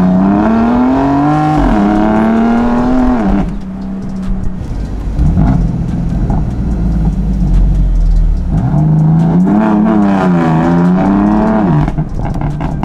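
A tuned BMW M4's S55 twin-turbo straight-six with a downpipe, heard from the open-top cabin. It accelerates hard with a rising engine note and one gear change, then lets off about three and a half seconds in and drops to a lower burble with scattered exhaust pops from the pops-and-bangs tune. It pulls again after the halfway mark, its pitch rising and falling.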